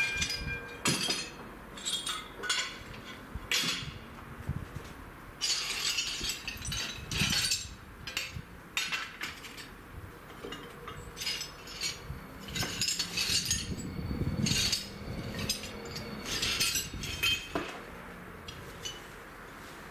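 Passing train's wheels on the rails: a long run of irregular sharp metallic clicks and clinks, with a faint low rumble near the middle. Two steady warning tones stop about a second in.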